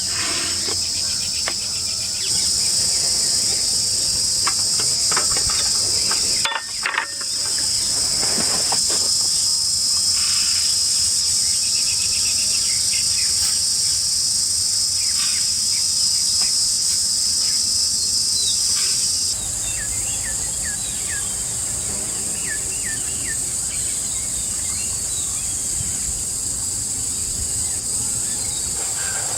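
A steady, high-pitched chorus of forest insects, with scattered short bird chirps over it. The chorus drops out for a moment about six and a half seconds in and shifts slightly about two-thirds of the way through.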